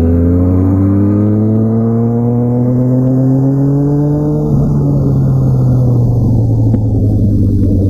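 2004 Honda CBR1000RR Fireblade's inline-four engine through a Jardine titanium exhaust, its pitch climbing steadily under acceleration for about four and a half seconds. The throttle then closes and the revs fall slowly as the bike slows.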